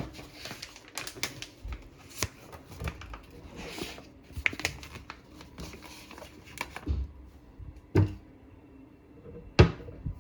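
Irregular light clicks and taps of objects being handled in a small room, with two louder sharp knocks near the end.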